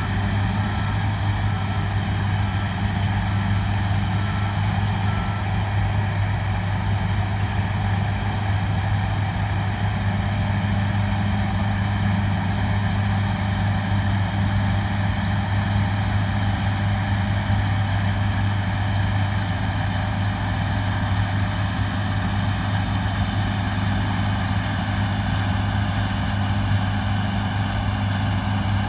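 Large diesel engine of harvest machinery running steadily at a constant speed, with a backup alarm beeping evenly for the first five seconds or so before it stops.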